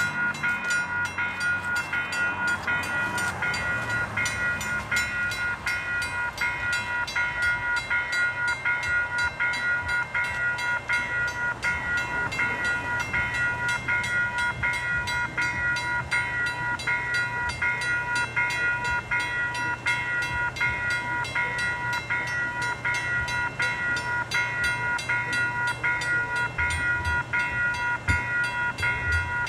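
Railroad grade-crossing bell ringing in fast, even strokes, with a train's low steady rumble underneath.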